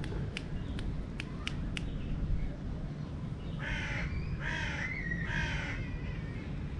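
A bird cawing three times, harsh calls about a second apart, over a steady low background rumble. A few sharp clicks come in the first two seconds.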